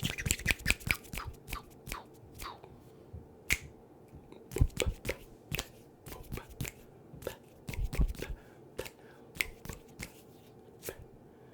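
Close-miked ASMR trigger sounds: quick, irregular clicks and taps right on the microphone, crowded together in the first second or so, then coming singly with short pauses between them.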